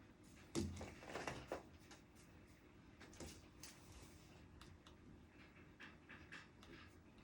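Quiet desk-study sounds: a soft knock about half a second in, a brief rustle like paper or a sleeve moving, then faint scattered ticks and taps.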